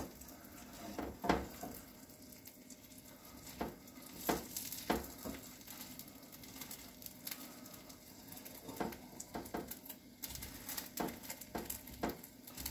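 Egg omelette frying with a faint sizzle in a frying pan, with scattered taps and scrapes of a spatula against the pan. The taps come more often near the end.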